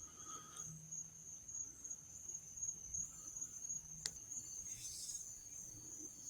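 Crickets trilling steadily at a high pitch, faint, with a single sharp click about four seconds in.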